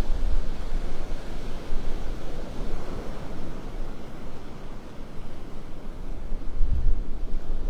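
Wind buffeting the microphone over the wash of Gulf surf. The gusts ease off in the middle and pick up again near the end.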